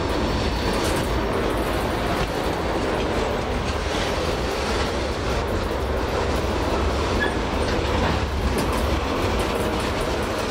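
Freight train of loaded flatcars rolling past close by: a steady rumble of steel wheels on rail, with scattered clicks as the wheels cross rail joints.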